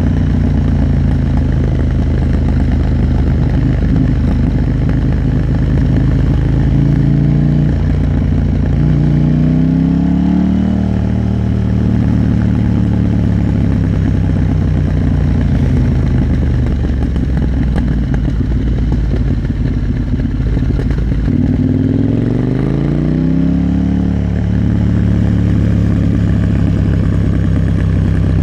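KTM 890 Duke R's parallel-twin engine running steadily on the move, its pitch climbing twice as the bike accelerates, about eight seconds in and again about twenty-two seconds in.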